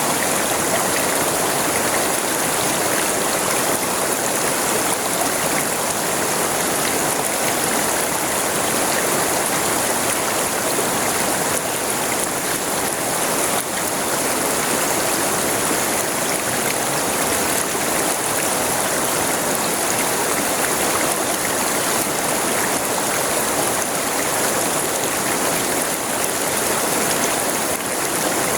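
River water rushing and babbling over stones in a steady, unbroken flow with a bright hiss.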